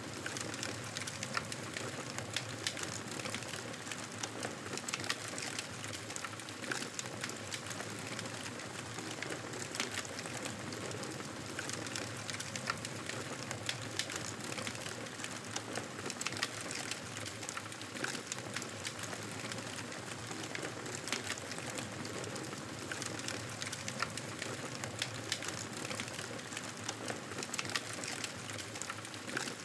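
Campfire burning steadily, wood crackling with irregular sharp pops and snaps over a constant hiss.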